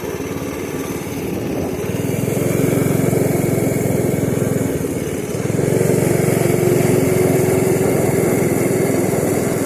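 Small pit bike engine running while the bike is ridden. It picks up about two seconds in, eases briefly near the middle, then picks up again.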